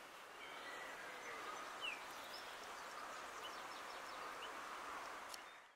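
Faint birdsong of short chirps over a steady background hiss, with a couple of light clicks. It cuts off abruptly near the end.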